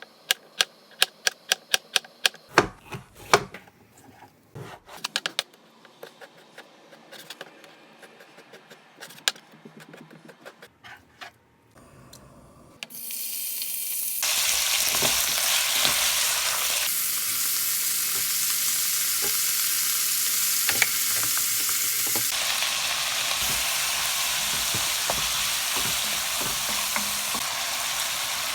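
Knife chopping on a cutting board, a quick run of strokes and then slower, scattered cuts. About thirteen seconds in, food hits a hot pan and a loud, steady sizzle of frying takes over.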